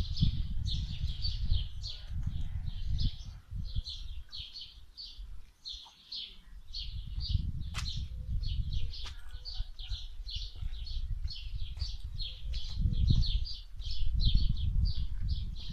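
A small bird chirping rapidly and without a break, a few high chirps a second, over loud uneven rumbling of wind on the microphone.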